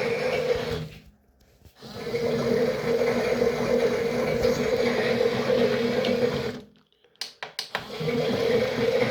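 Toy washing machine's small electric motor whirring as the drum churns water. It stops twice for under a second, about a second in and again near the end, and there are a few clicks during the second pause before it starts again.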